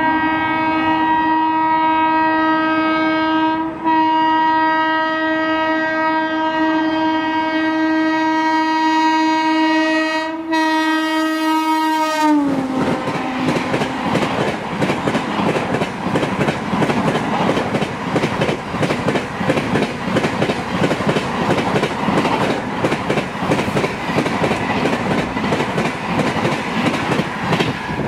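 Electric locomotive's horn held long on the approach, broken briefly twice, its pitch dropping sharply as the locomotive passes. Then the rush and rapid clickety-clack of LHB coaches going by at speed.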